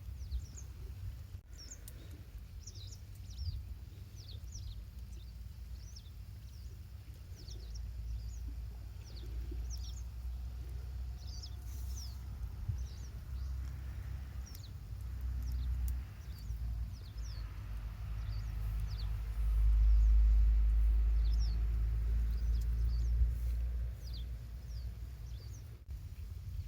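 Small birds chirping again and again in short, quick falling notes, over a low outdoor rumble that grows louder partway through and is strongest about twenty seconds in.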